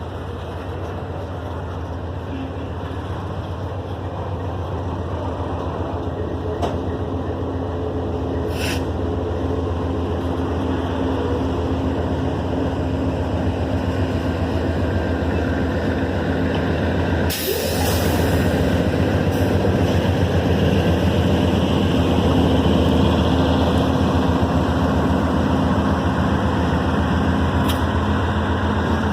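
Diesel locomotive engine running steadily and slowly growing louder, with a short hiss about seventeen seconds in.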